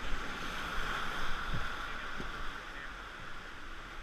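Steady rushing of whitewater on the Nantahala River, with a low rumble underneath.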